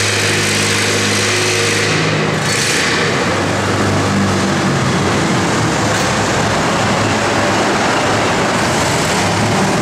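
Antique tractor engine running hard under load, pulling the weight sled. Its steady tone turns rougher and denser a couple of seconds in.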